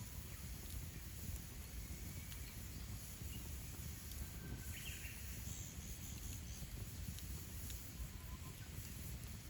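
Campfire burning with scattered faint crackles over a low, steady rumble. About halfway through, a bird calls briefly, followed by a quick run of four high chirps.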